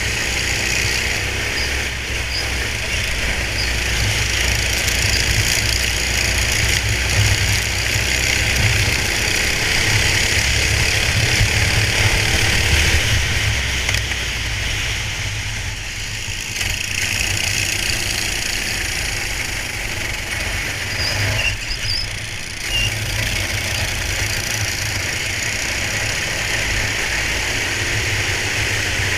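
Go-kart engine heard onboard while racing, running steadily with revs rising and falling through corners, under a constant rushing noise.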